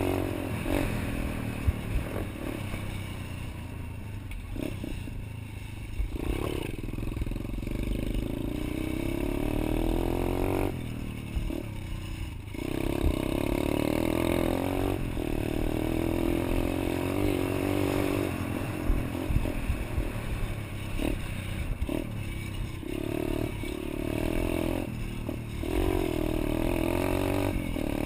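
Pit bike engine being ridden, revving up and dropping back over and over as the throttle opens and closes, with the revs falling away twice. Knocks and rattles sound over the engine.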